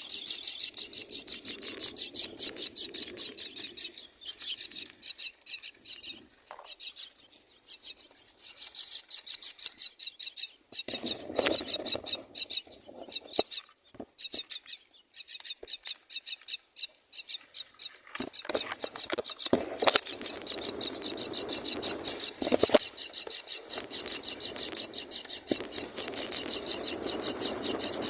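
Common myna nestlings begging: rapid, raspy calls repeated several times a second in long runs, dropping to a lull midway and starting up again strongly near the end.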